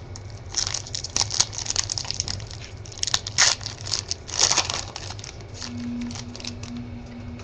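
Crinkling and tearing of trading card pack wrappers and packaging being opened by hand, in irregular bursts that die away after about five seconds.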